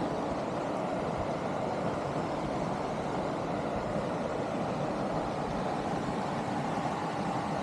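GMC Denali pickup truck on the move, a steady mix of engine and road noise.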